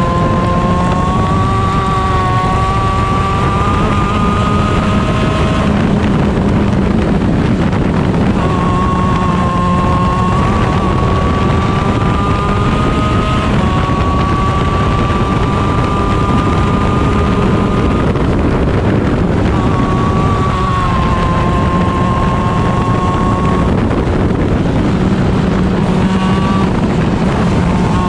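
Onboard sound of a 125cc shifter kart's two-stroke Honda engine at high revs, its pitch climbing slowly under acceleration and breaking off several times for braking or gear changes. Heavy wind noise on the microphone runs underneath.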